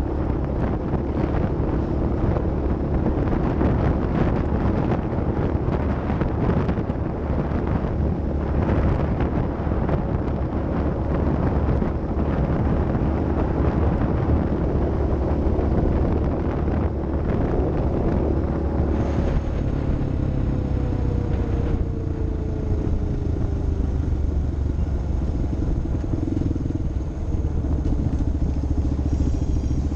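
Off-road vehicle engine running steadily under load, with a falling engine note from a little past halfway.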